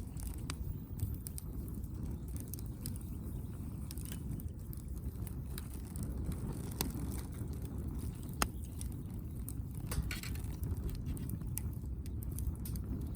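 Wood fire burning, crackling with scattered sharp pops over a steady low rumble; the loudest pop comes about eight and a half seconds in.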